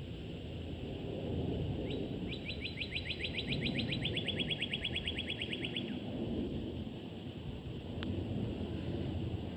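A small bird sings a fast trill of about seven chirps a second for roughly four seconds, dropping slightly in pitch halfway through, over a steady low outdoor rumble.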